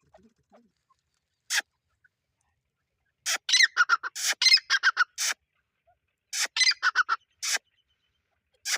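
Teetar (francolin) calling loudly in rapid runs of sharp, repeated notes. A single note comes about a second and a half in, then two quick series of calls follow, with a last note at the very end.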